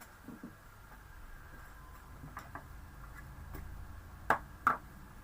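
Small craft tools and objects being handled on a hard tabletop: a few light clicks and taps, then two sharp clicks about a third of a second apart near the end.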